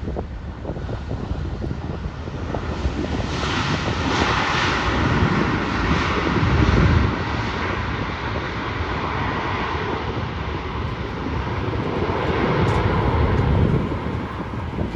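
Airliner's jet engines passing, a broad rushing noise with a faint steady whine that builds over the first few seconds, peaks about four to seven seconds in, swells again near the end and then starts to fade.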